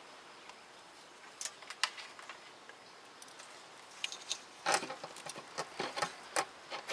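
Scattered light clicks and taps of engine parts and tools being handled: a few faint ones early, then a quicker run of sharper clicks and knocks from about four seconds in.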